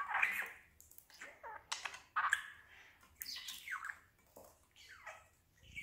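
Budgerigar chirping and chattering in a string of short, irregular calls with brief gaps between them.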